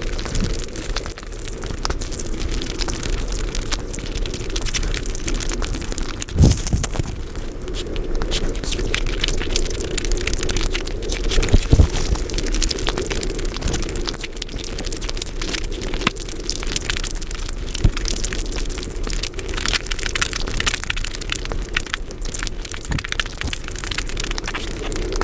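Close-miked mukbang eating sounds played back sped up: a dense, continuous crackle of rapid wet chewing and mouth clicks, with two heavier thumps about six and twelve seconds in.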